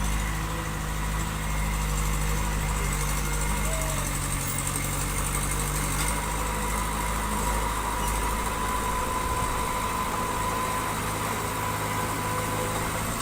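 Diesel engine of construction machinery (bulldozer or dump truck) running steadily, with a thin steady whine above the engine note.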